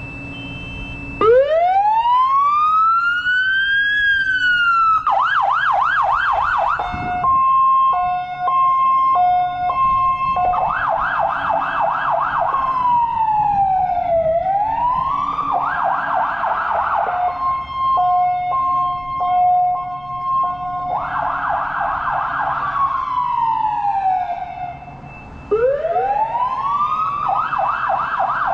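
Fire engine's electronic siren, switched on about a second in and cycling through its tones: a slow rising and falling wail, a fast warbling yelp, and a hi-lo two-tone alternating between two steady pitches. The sequence repeats, with a fresh wail rising near the end.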